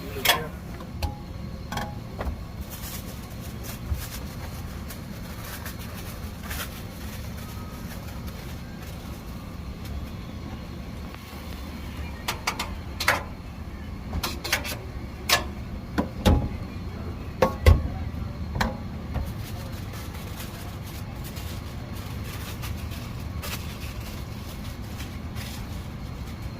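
Steady low rumble of street traffic, with scattered sharp clacks and knocks that come thickest in the middle of the stretch.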